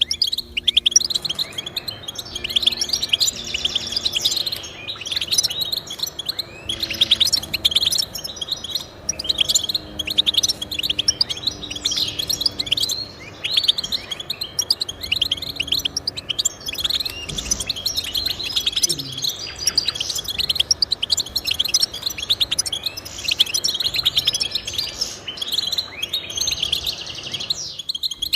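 A finch singing a long, rapid twittering song of quick chirps and trills, with only short breaks.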